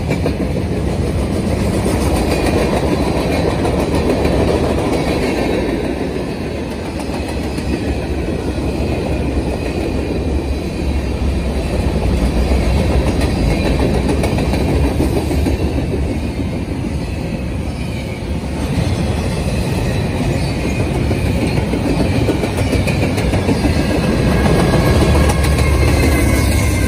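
Freight train rolling past at close range: a steady rumble with wheels clattering over the rails as freight cars go by. Near the end it grows louder and deeper as a Norfolk Southern diesel locomotive, running as mid-train distributed power, passes.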